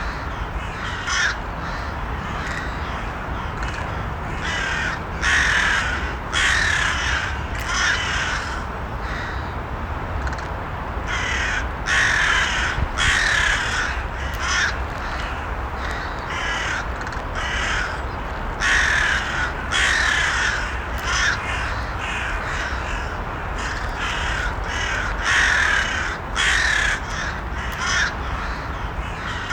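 Crows cawing over and over, short harsh calls coming every second or so in runs, over a steady low rumble.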